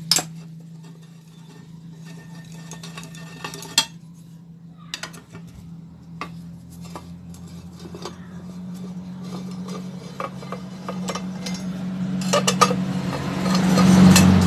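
Metal hand tools clinking and clicking against a motorcycle engine's bolts and covers as the magneto cover and valve cover are taken off. Irregular sharp clicks over a steady low hum that grows louder near the end.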